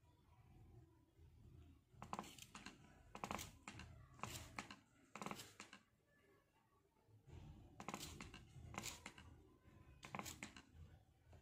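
Hand-held spray bottle squirting water mist in short hissing bursts, roughly one a second, in two runs with a pause between.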